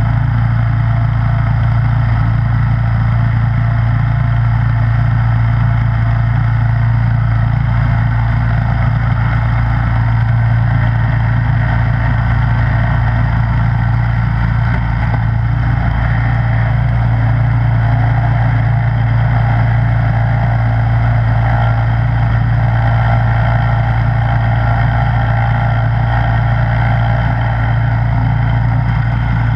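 Snowblower engine running steadily at constant speed, an even drone with no change in pitch or loudness.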